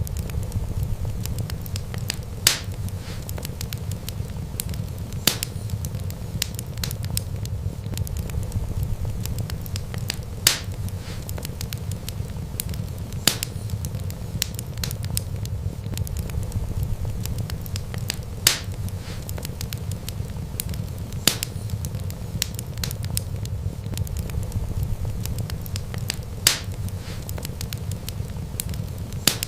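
Wood fire crackling, with a steady low rumble of flames under many small crackles and a sharp pop every few seconds, about eight in all.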